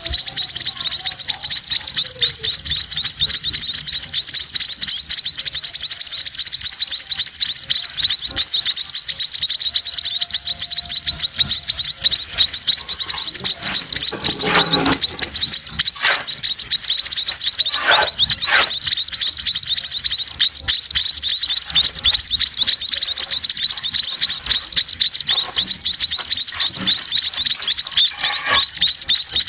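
Nestling birds begging: a dense, continuous chorus of rapid, high-pitched cheeping, with a few brief knocks or rustles in the middle.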